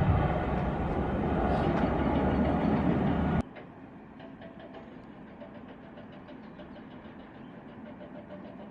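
Loud jet airliner engine noise that cuts off abruptly a little over three seconds in. It gives way to a much quieter steady background with faint, quick, regular ticking.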